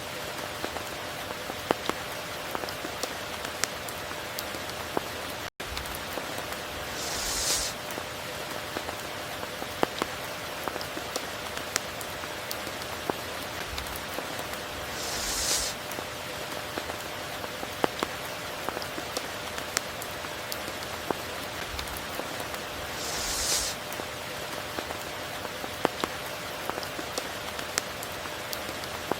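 Steady rain with many separate drops pattering, and a brief high hiss that swells and fades about every eight seconds. A faint steady hum runs underneath, and the sound cuts out for a split second about five seconds in.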